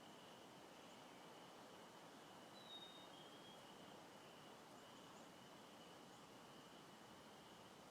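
Faint outdoor spring ambience: a steady high-pitched trill runs throughout, with a brief high whistled note, like a bird's, about two and a half seconds in.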